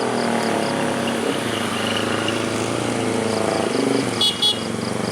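Engines of passing road traffic running on the climb, with two short horn toots about four seconds in and a rapid high-pitched beeping in the background.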